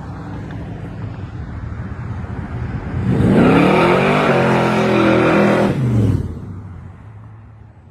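A hot-rod muscle car's engine accelerating hard past: a low rumble that swells about three seconds in into a loud, rising engine note, held for a few seconds, then drops in pitch and fades as the car moves away.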